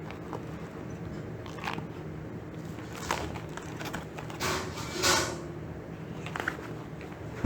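Wooden play sticks being handled and laid out: a few short rustles and clatters over a steady low hum.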